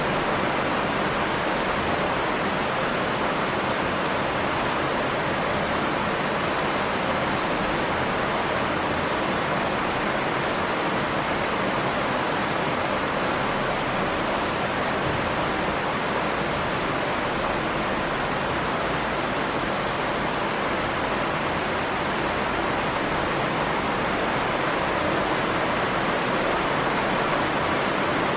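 Steady rain falling, an even continuous hiss that doesn't let up.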